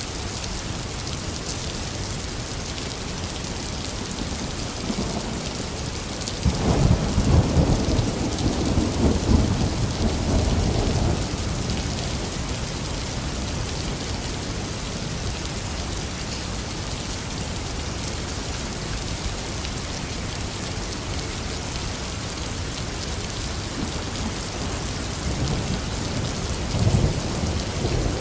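Heavy rain falling steadily, with a loud rumble of thunder about a quarter of the way in that lasts a few seconds, and a fainter roll of thunder near the end.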